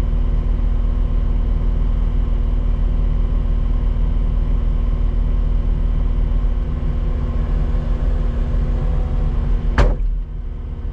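Skid steer engine running steadily at working revs, heard close up. Near the end a single sharp knock, after which the engine sound drops a little.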